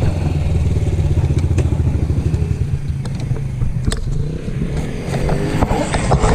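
Small single-cylinder pit bike engine running under throttle, its revs rising and falling near the end, with a few short rattling clicks.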